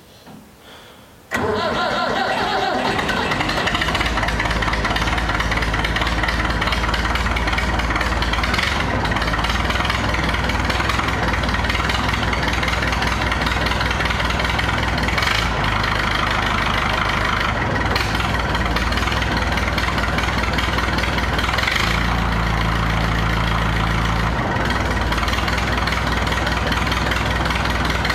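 Massey Ferguson tractor engine with a straight-pipe exhaust, starting about a second in and then running steadily at idle through the open pipe. Its note shifts briefly about two-thirds of the way through.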